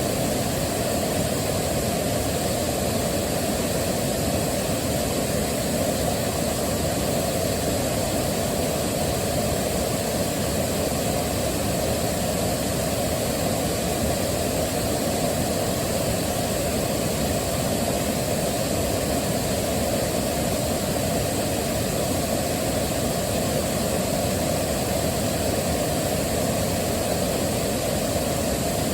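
Waterfall rushing steadily, a constant deep roar of falling water without change.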